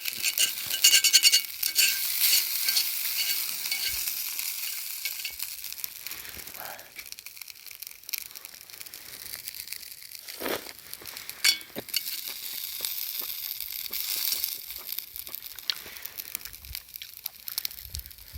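Food sizzling in a hot pan over a campfire. It is loudest right at the start, then slowly dies down, with a few sharp crackles.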